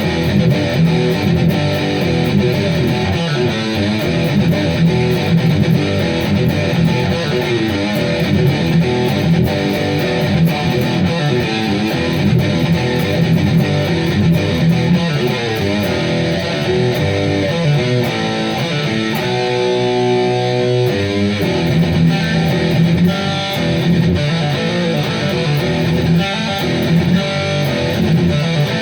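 Heavy metal riffs played on a Gibson Les Paul electric guitar, with a chord left ringing for a couple of seconds about two-thirds of the way through.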